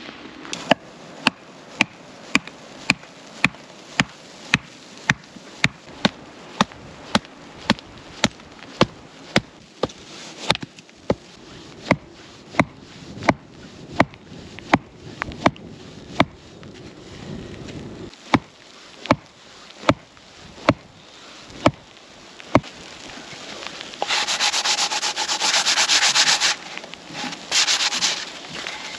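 A steady run of sharp knocks, about two a second, that stops a few seconds before the end. Then comes a louder rough scraping or hissing in two stretches.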